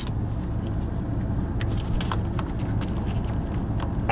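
A diesel truck engine idling steadily, with a few faint light clicks over it.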